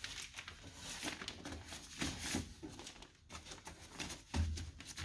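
Scattered light clicks, taps and rustles of hands working at a car door's inner panel while the access hole is being covered.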